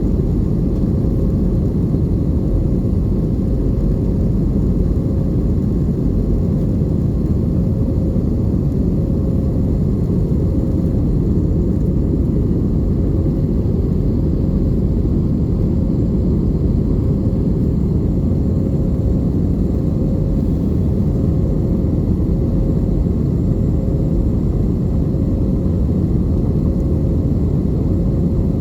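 Airbus A320 cabin noise: a steady low rumble from the jet engines and airflow, unchanging throughout, with a faint steady hum above it.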